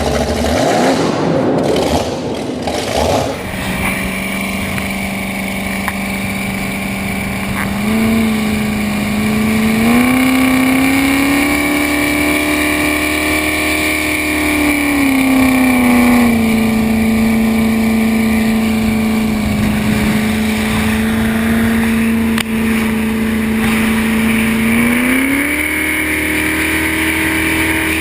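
1976 Southwind jet boat's engine running under way, holding a steady note that rises in pitch a couple of times as the throttle opens, falls back, then rises again near the end. The first few seconds are a loud rushing noise before the engine note settles.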